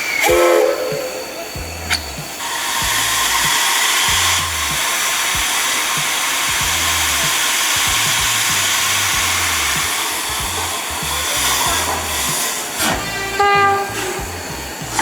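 Steam locomotive letting off a long, steady hiss of steam, with a short whistle blast near the end. Background music with a low bass line runs underneath.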